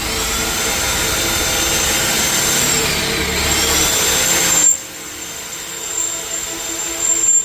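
An electric drill boring holes into a steel compressor air tank. The motor's whine dips and recovers in pitch under load, then the loud drilling stops abruptly about two-thirds of the way through, leaving a lower machine noise with a few knocks.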